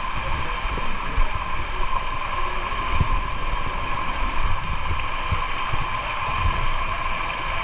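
Steady rush of water from a waterfall and stream in a rocky gorge, with irregular gusts of wind buffeting the microphone.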